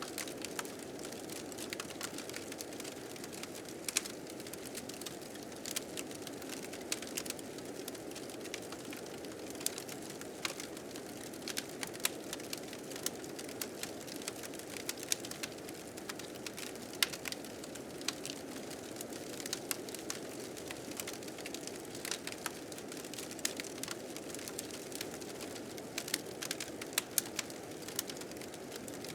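Wood fire crackling with frequent sharp pops over the steady rushing noise of blizzard wind.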